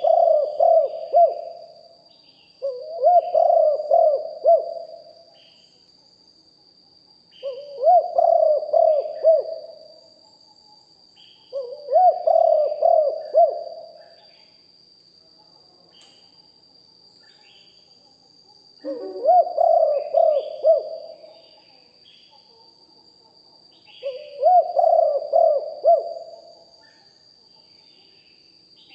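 Spotted dove cooing: six repeated phrases of about two seconds each, with pauses of one to five seconds between them. A steady high-pitched whine runs underneath, with faint chirps.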